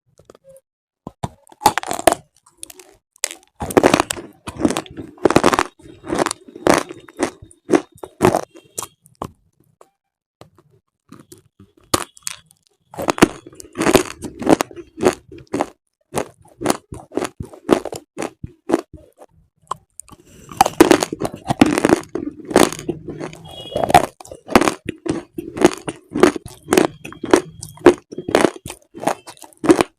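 Close, sharp crunching of something brittle: rapid crackles and snaps in three long spells, with a pause of a few seconds partway through.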